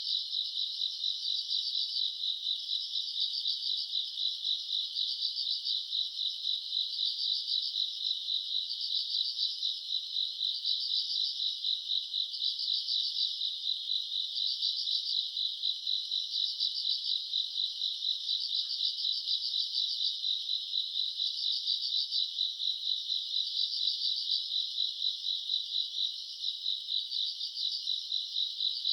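Night insects chirping in chorus: a dense, steady trill of rapid pulses, with a second chirping voice that swells and fades about every two seconds.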